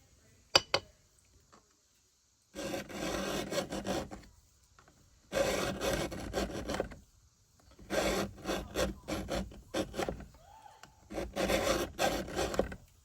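Hand file rasping across a chainsaw chain's cutter teeth during sharpening: four runs of quick back-and-forth strokes, each a second or two long with short pauses between, after a sharp click about half a second in.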